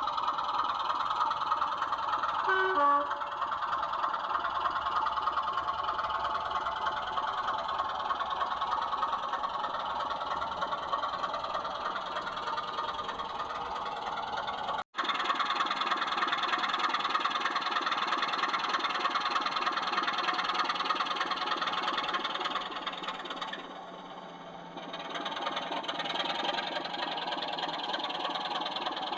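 00 gauge model train running on the layout: a steady mechanical running sound from the locomotive and the wheels on the track. It breaks off for an instant about halfway through and dips briefly a few seconds later.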